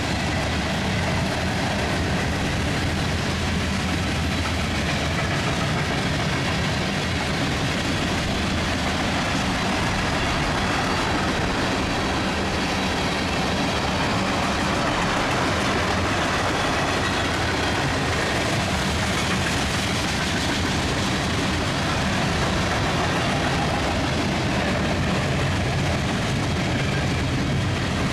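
Freight cars of a long mixed train, covered hoppers and tank cars, rolling past: a steady rumble and rattle of steel wheels on the rails that holds at an even level throughout.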